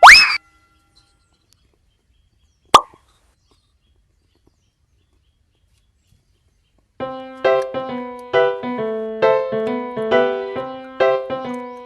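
Editing sound effects: a quick rising glide at the start and a single pop a few seconds later, with dead silence around them, then light piano-like background music in a repeating pattern coming in about seven seconds in.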